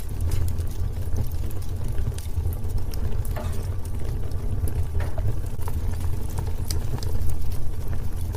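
Wood fire in a fireplace crackling: irregular sharp pops and snaps over a steady low rumble from the burning.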